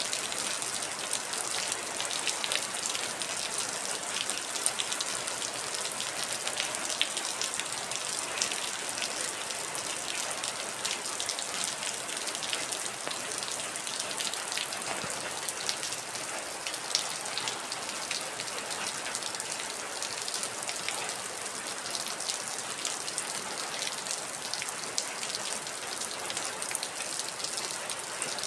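Heavy rain falling steadily, a dense hiss with many individual drops ticking sharply on a hard surface.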